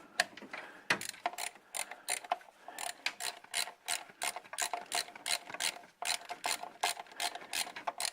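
Ratchet wrench clicking in a quick, steady run of strokes while backing a spark plug out of the engine's cylinder head.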